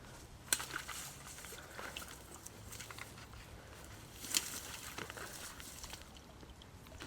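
Scattered rustling and small knocks as an inflatable kayak is worked free of a tight marsh channel, with two sharper knocks about half a second in and about four seconds later.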